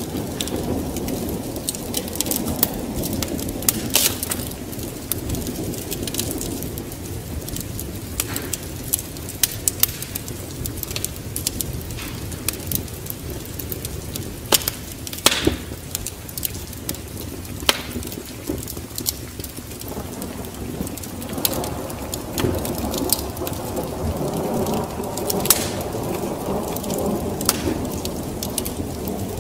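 Wood fire crackling with scattered sharp pops over steady rain, with a low rumble of thunder that swells in the second half.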